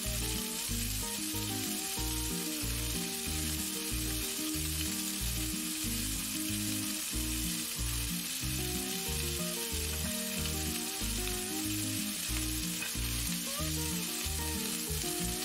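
Lamb cutlets and sliced onion sizzling steadily in hot oil in a frying pan, with background music underneath.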